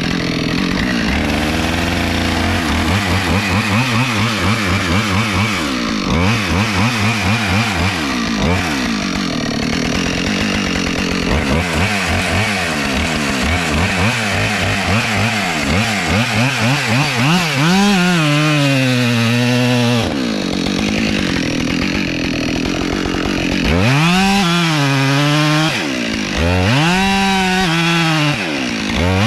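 Gas chainsaw cutting into an oak trunk, its engine speed rising and falling as the chain bites into the wood and frees again, with several deep dips and recoveries in pitch in the second half.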